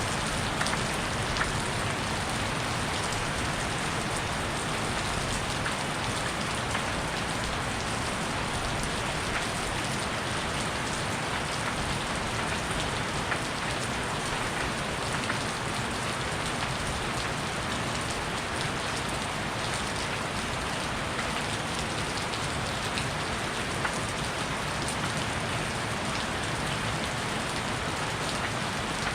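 Heavy rain falling steadily, a constant hiss with scattered sharper drop ticks.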